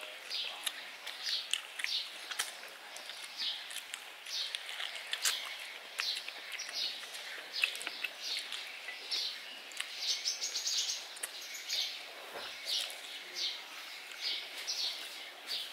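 A small bird chirping over and over: short high notes roughly every half second, with a quick run of rapid notes about two-thirds of the way through. A few light clicks sound now and then.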